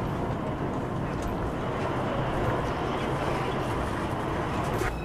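Steady low rumble of street ambience added as a soundtrack, a vehicle-like din with no distinct tones and a few faint clicks.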